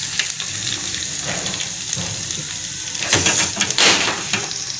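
Chopped garlic and ginger sizzling in hot ghee in a steel pan for a tadka, being stirred; the sizzle swells about three seconds in.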